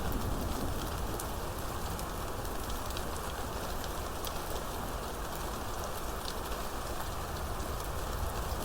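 Steady rain falling, a dense hiss of drops with fine individual splats. Underneath is a low rumble that eases in the middle and swells again near the end.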